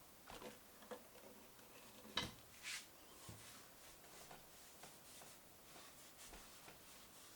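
Near silence with faint handling noises: a few soft knocks and clicks, the sharpest about two seconds in, followed by a brief rustle and a scattering of light ticks.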